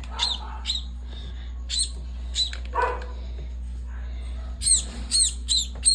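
A maya bird (Eurasian tree sparrow) chirping: short, high chirps, a few scattered at first, then a quick run of them near the end.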